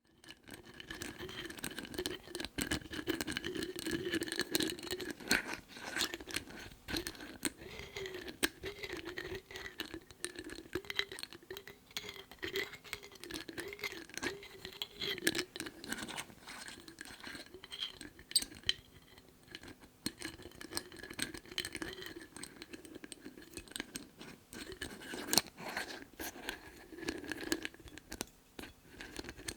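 Lids being tapped and scratched: a dense run of sharp clicks and scrapes. Over them is a wavering pitched tone that rises and falls about once a second, strongest in the first half.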